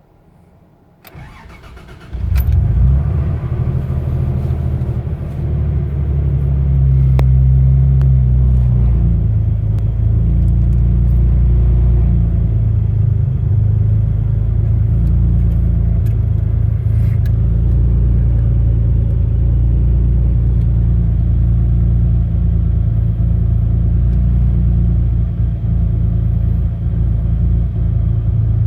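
Toyota Tacoma engine cold-started: the starter cranks for about a second and the engine catches about two seconds in. It runs at a fast cold idle that eases a little lower after several seconds, then idles steadily.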